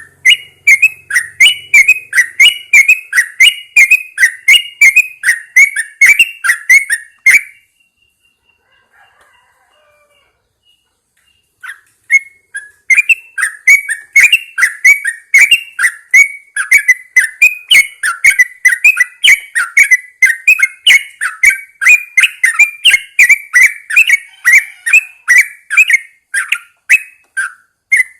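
Yellow-vented bulbul singing loudly in a quick run of short, bubbly notes, about three a second. It pauses for a few seconds about a quarter of the way in, then carries on.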